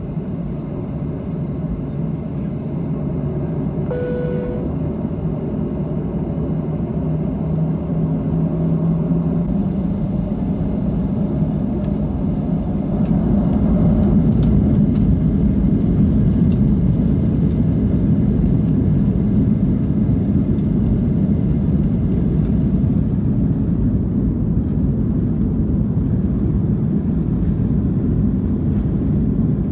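Cabin noise inside a Boeing 737-700: the CFM56-7B engines' low rumble grows louder over about the first fourteen seconds, then holds steady. A brief tone sounds about four seconds in.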